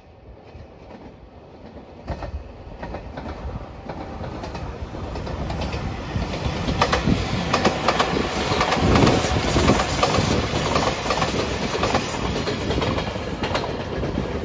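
JR Shikoku 8000-series electric limited express train passing, its rumble building up over several seconds. Its wheels clack over rail joints, loudest in the second half as the cars go by.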